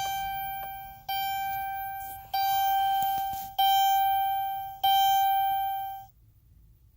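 Dodge Grand Caravan dashboard warning chime sounding five times, about one ding every 1.25 s. Each ding is a single bell-like tone that fades before the next.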